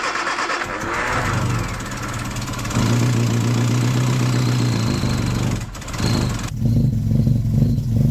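Freshly rebuilt 1311cc A-series four-cylinder engine running on its first start on full choke. It runs rough at first and settles into a steady note about three seconds in. It does not want to rev.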